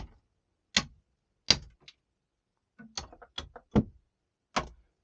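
A run of sharp metal knocks and clinks from hand tools working on the engine's exhaust manifold: three spaced hits, then a quick cluster of four or five about three seconds in, and one more near the end.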